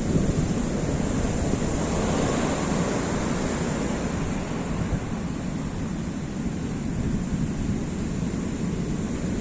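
Rough sea surf breaking and washing ashore, with strong wind buffeting the microphone.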